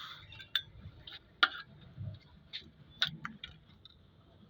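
Irregular sharp metallic clicks and clinks of hand tools working the bolts of an engine's oil strainer, about one or two a second.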